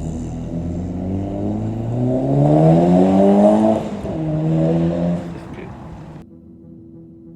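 Honda Civic Type R FN2's four-cylinder engine accelerating hard, its pitch rising for about two seconds, then dropping suddenly at an upshift about four seconds in. It holds briefly at the lower pitch and then fades away.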